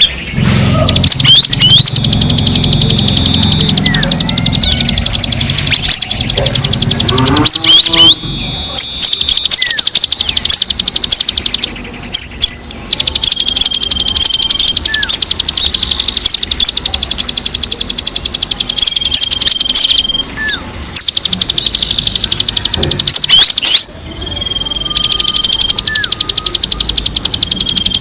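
Songbirds chirping and chattering loudly: a dense stream of rapid high chirps mixed with quick upward-slurred whistles and a short repeated whistle note, broken by a few brief pauses.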